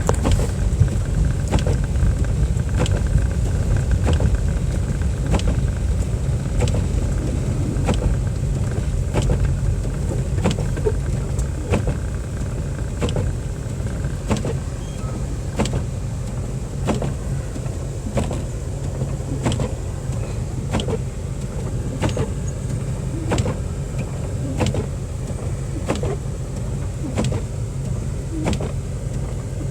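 Car being driven, heard from inside the cabin: a steady low road and engine rumble, with the windshield wipers knocking at the end of each stroke about every 1.3 seconds.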